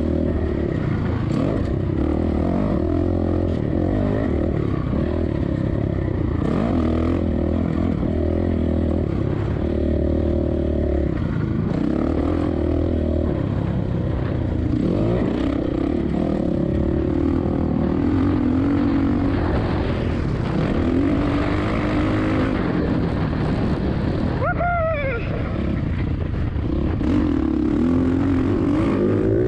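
Motocross bike engine, a 2007 Suzuki RM-Z450's single-cylinder four-stroke, running under changing throttle, its pitch rising and falling throughout. About 25 seconds in there is a quick falling sweep in pitch.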